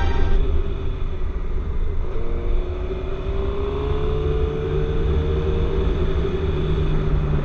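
Vehicle engine running on the road over a heavy low wind rumble, with one engine note slowly climbing in pitch from about two seconds in to about six seconds in, as the vehicle speeds up.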